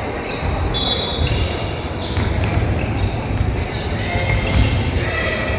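Basketball bouncing on a gym floor during a youth game, with players' and spectators' voices in the echoing hall.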